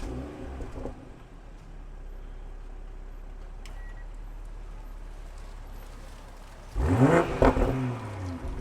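Exhaust of a 2020 BMW M340i xDrive's 3.0-litre turbocharged inline six: idling steadily, then revved sharply about seven seconds in, the pitch shooting up and falling back, before settling toward idle.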